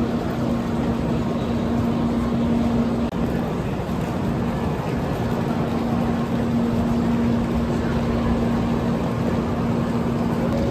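Steady vehicle rumble and rushing noise with a constant low hum, broken by a momentary dropout about three seconds in.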